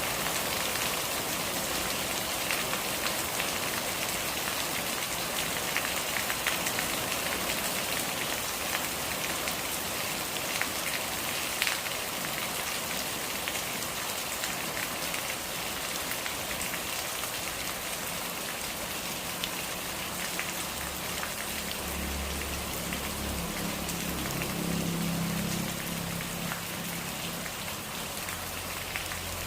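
Steady rain falling, with individual drops ticking sharply through the hiss. A low rumble joins in past the middle for about five seconds.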